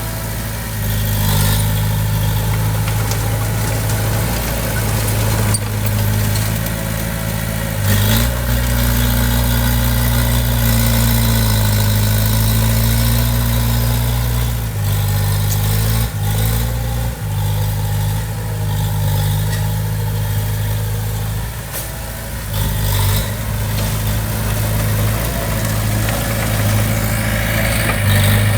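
Diesel engine of heavy construction machinery running steadily, with its pitch and loudness shifting up and down a few times through the stretch, and a few short knocks.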